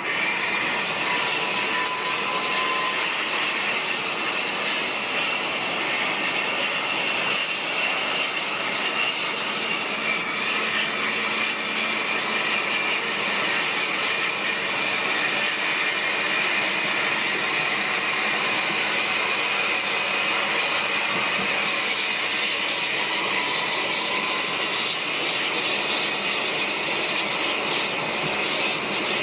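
Steady road and engine noise inside a moving coach bus, with a continuous high whine.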